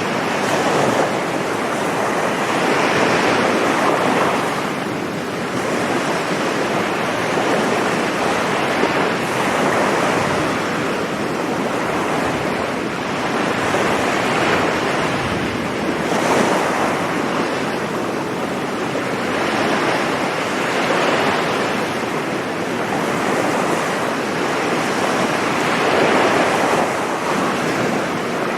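Sea waves breaking on a beach, the surf swelling and easing every few seconds, with wind on the microphone.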